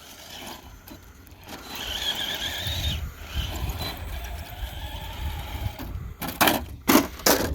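RC mud truck's electric motor and drivetrain whining under load while climbing a steep hill, a warbling high whine over a low rumble, followed by a few sharp knocks near the end.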